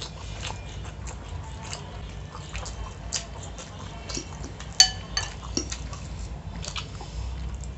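Close-up chewing of pasta with wet mouth clicks, and a fork scraping and clinking on the plate; one sharp, ringing clink about five seconds in is the loudest sound.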